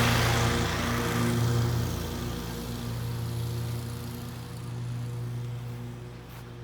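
Vehicle engine running with a steady hum while the rushing road and wind noise fades away, as if the vehicle is slowing down.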